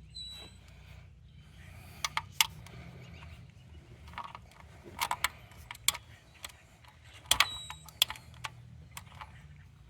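Irregular metallic clicks and clinks of a socket wrench on a tractor's oil drain plugs, a few ringing briefly, over a faint steady low hum.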